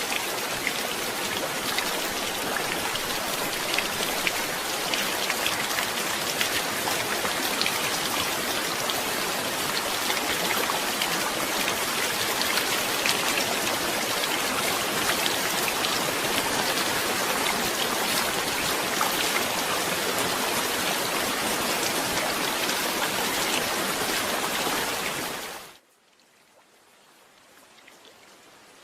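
Steady heavy rain, a dense patter of drops. About 25 seconds in the sound cuts off abruptly, and a much fainter rain slowly fades back in.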